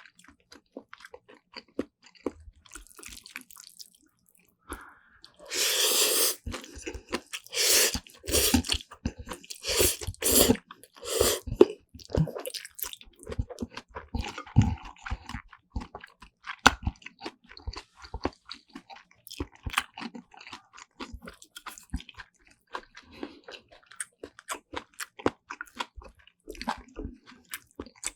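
Close-miked eating of Jjapaghetti black bean instant noodles with kimchi and vegetable side dishes: wet chewing and crunching. A run of louder noisy mouthfuls comes between about 6 and 12 seconds in, then many short wet smacks and clicks.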